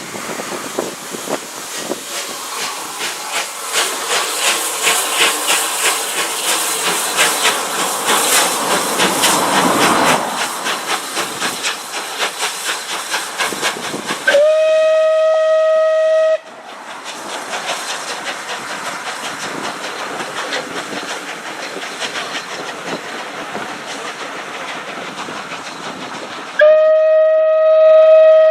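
Steam locomotive on the move with a rapid, rhythmic beat. About halfway through, its steam whistle gives a steady two-second blast, and it sounds again near the end.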